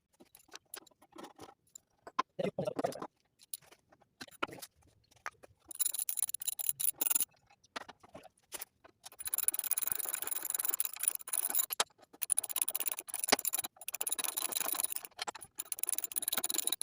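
Socket ratchet clicking as bolts are worked loose on a 1972 Briggs & Stratton engine for removal of its cylinder head, a few scattered clicks at first and then long runs of rapid ratchet clicking through the second half.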